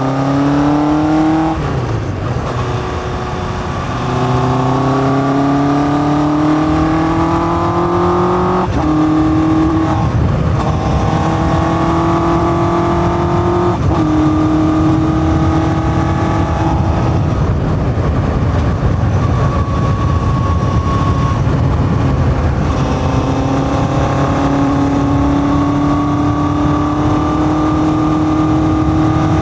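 1981 Yamaha XJ550's air-cooled inline-four engine through a 4-into-1 exhaust with open K&N filters, pulling up through the gears: the engine note climbs and drops back at each upshift about four times in the first half. It then holds a steadier cruise and climbs slowly again near the end.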